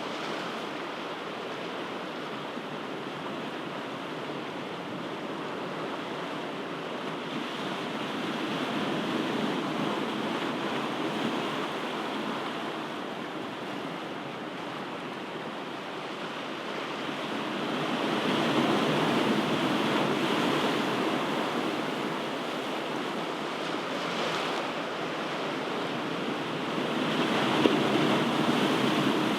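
Ocean waves washing in: a steady rushing surf that swells three times, about eight to nine seconds apart, and eases back between.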